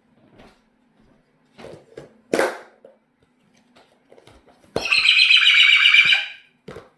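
A pet bird gives one loud, harsh, rapidly pulsing call lasting under two seconds, about two thirds of the way in. A single sharp click comes a couple of seconds earlier.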